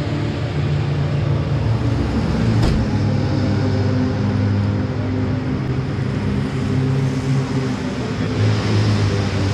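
Citroën 2CV race cars' air-cooled flat-twin engines running steadily, with a short click about two and a half seconds in.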